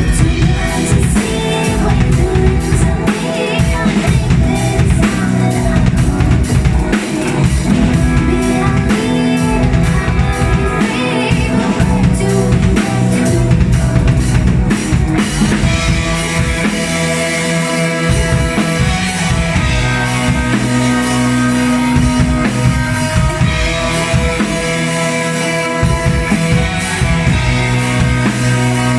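Live band playing a song, led by a drum kit, with held notes from the other instruments.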